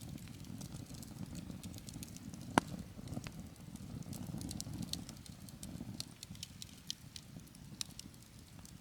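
Wood campfire burning, with a steady low rush from the flames and many small crackles, and one sharp, loud pop about two and a half seconds in.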